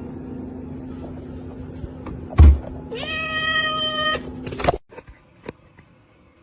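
A cat gives one drawn-out meow, rising briefly and then held at a steady pitch for about a second. Just before it comes a loud thump, all over a steady low hum that cuts off suddenly.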